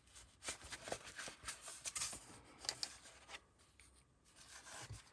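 Faint scratching and crackling clicks as an awl is wiggled through sewing holes in a thick stack of journal paper to enlarge them, in a run lasting about three seconds.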